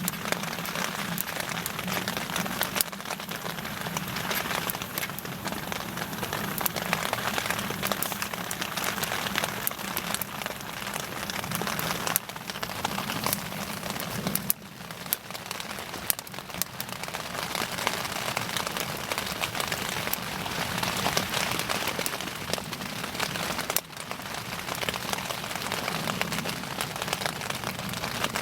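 Bonfire burning: a dense, constant crackle with scattered sharper pops.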